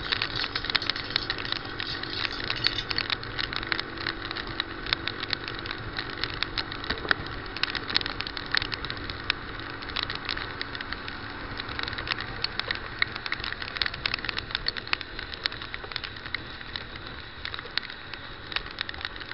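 Heavy rain hitting a moving motorcycle: a dense, irregular patter of sharp raindrop ticks right at the microphone, over the steady hum of the motorcycle's engine and road noise.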